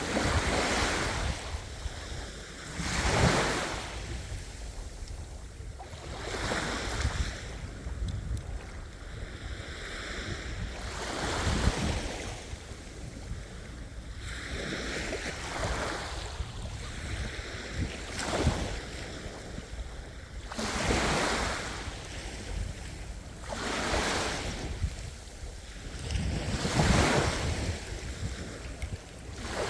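Sea waves breaking and washing in, a surge of noise rising and falling every few seconds, some swells louder than others.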